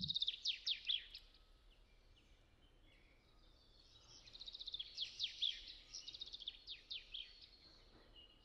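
A songbird singing: two quick runs of high, falling notes, one at the start and another from about four seconds in, over a faint, steady background hush.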